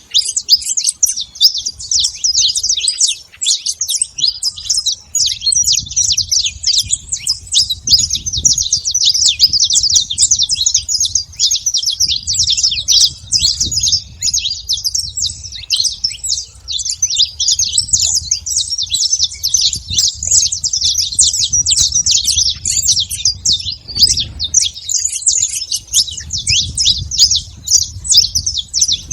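Saffron finch singing: a long, nearly unbroken run of rapid high chirping notes, with a faint low rumble underneath.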